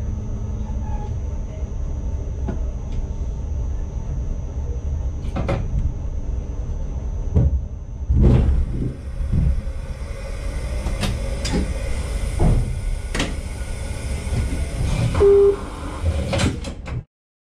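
Inside the cab of an ICMm intercity train: a steady low rumble, with a run of knocks and clicks and a high hiss starting about halfway through. A short beep sounds near the end, and then the sound cuts off suddenly.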